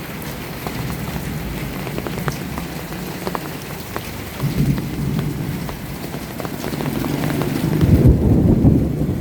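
Heavy rain falling steadily, with single drops clicking close by. Low thunder rumbles in under it, swelling in the second half and loudest near the end.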